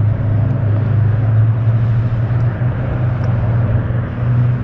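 A steady low drone with an even rushing noise over it, like a motor running without let-up.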